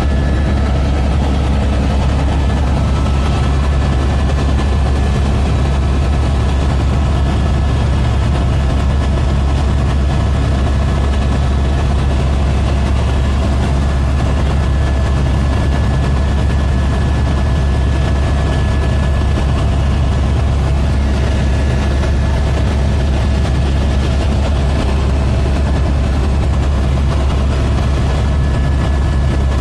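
Helicopter engine and rotor running steadily in flight: a loud, even low drone with a faint steady high whine above it.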